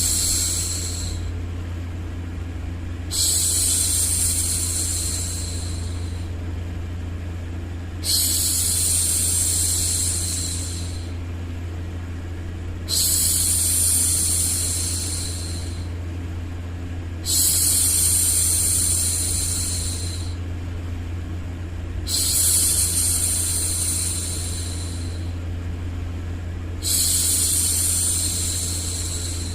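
A woman's long, drawn-out 'shhh' hushing, repeated about every five seconds, each shush lasting about three seconds, over a steady low hum and a white-noise bed.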